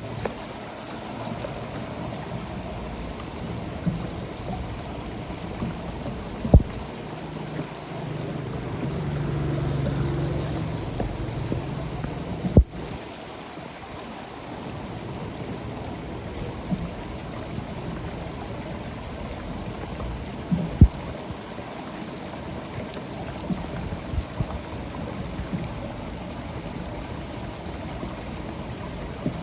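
Floodwater running steadily into a street storm drain. A few sharp knocks sound through it, and a low rumble swells and fades about a third of the way in.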